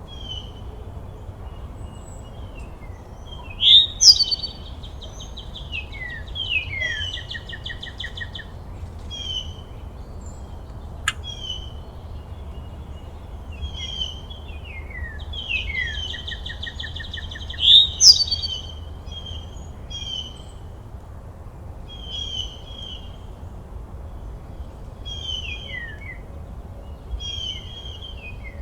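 Birds singing and calling: short chirps, quick downward-sliding notes and fast buzzy trills, repeating every second or two, loudest about four seconds in and again near eighteen seconds. A low steady rumble runs underneath, and a single sharp click comes about eleven seconds in.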